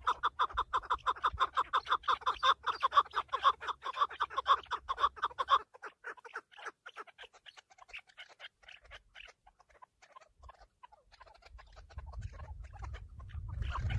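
Chukar partridges calling: a fast, even run of short clucking notes, several a second, that breaks off abruptly about five and a half seconds in. Fainter, scattered calls follow, with a low rumble rising near the end.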